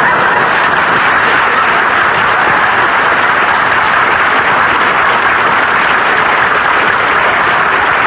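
Studio audience applauding, loud and sustained, on an old radio broadcast recording with a dulled top end.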